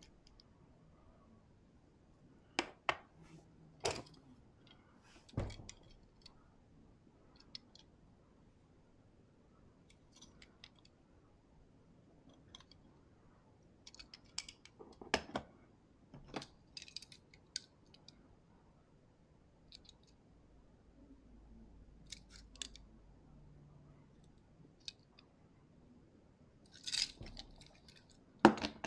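Scattered light clicks and clacks of small die-cast toy cars and plastic track pieces being handled and set down, a few at a time with quiet gaps between.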